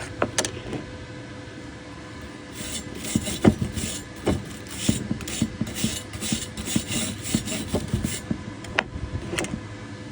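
Rapid rasping strokes on metal, about three or four a second, over a steady hum. A few sharp clicks come first, and the strokes stop about two seconds before the end.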